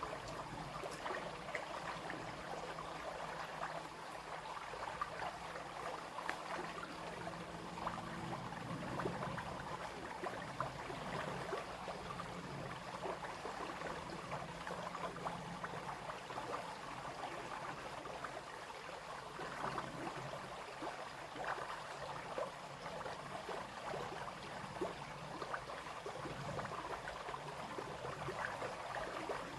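A small brook babbling and splashing over stones, with a steady rush dotted with many small, quick splashes.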